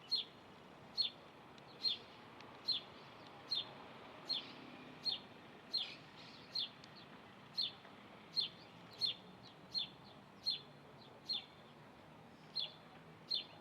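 A bird giving a short, sharp, high chirp over and over at a steady pace, roughly one call every second, with a brief gap near the end.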